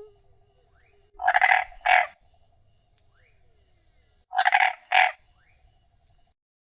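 A frog croaking: two double croaks about three seconds apart, over a faint steady high hiss and a quieter rapid trill.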